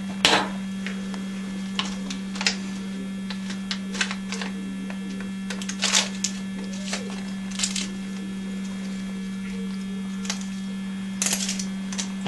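Steady electrical hum with scattered light clicks of metal surgical instruments, as a small scalp incision is stitched closed.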